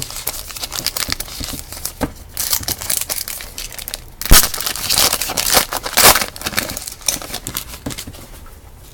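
Trading card pack wrapper being crinkled and torn open, an irregular run of crackles and rustles with the loudest tears near the middle.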